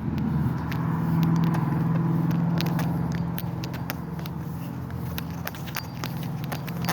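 Road traffic: a car's engine and tyre noise swelling as it passes and then easing off, with frequent small clicks and crackles over it.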